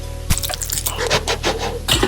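Background music with close-miked eating sounds: a dense run of crisp crunches and clicks starts about a third of a second in.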